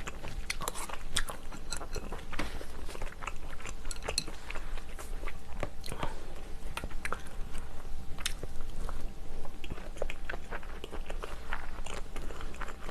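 Close-miked chewing of seafood stew: irregular wet smacks and small clicks of a mouth eating, with no words.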